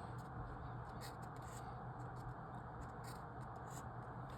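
Faint scratching of writing on paper, a few short strokes scattered through, over a steady low room hum.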